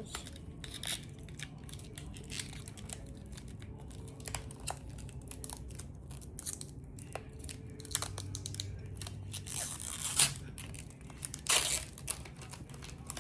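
Plastic packaging crinkling and tearing as a small toy package is opened, with scattered light clicks and rustles; the loudest tearing comes near the end.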